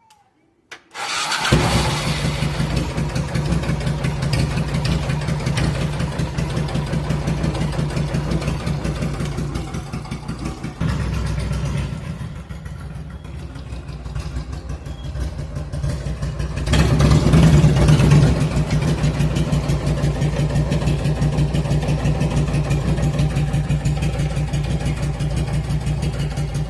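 Suzuki Intruder 1400's V-twin motorcycle engine starting about a second in, then running with a steady pulsing beat. It swells louder briefly about two-thirds of the way through before settling back.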